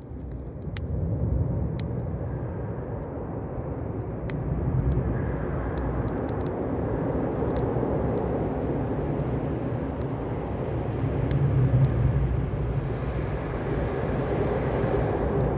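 Campfire burning, with sharp crackles and pops from the wood scattered through it over a steady low rumble.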